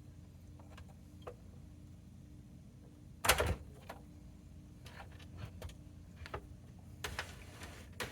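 Scattered small clicks and knocks of hand work on an oscilloscope's metal chassis and parts, with one louder scraping clatter about three seconds in and a short burst of rattling near the end.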